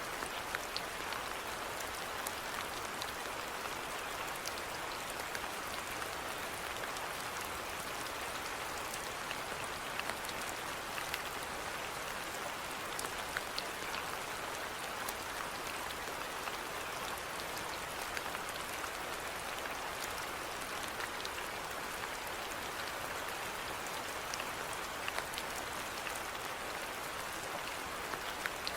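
Steady rainfall, with individual drops ticking sharply here and there over a continuous hiss.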